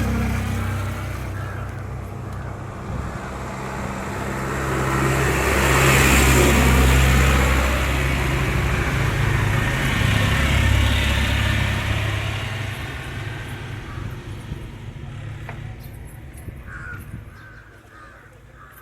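A motor vehicle's engine running close by, getting louder to a peak about six seconds in and again around eleven seconds, then fading away.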